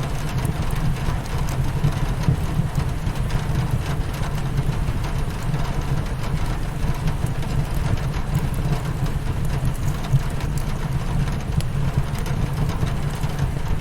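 Steady rain pattering against a windowpane with a fireplace crackling, all over a constant deep low rumble.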